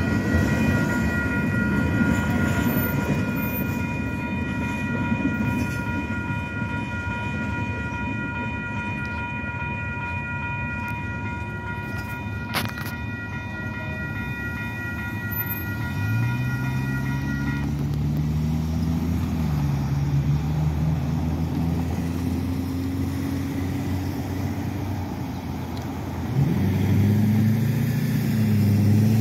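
The last hopper cars of a freight train rolling past with a heavy rumble while a railroad crossing's warning bell rings steadily; the bell stops a little past halfway through. Then cars and pickup trucks accelerate across the crossing, their engines rising in pitch, the loudest one near the end.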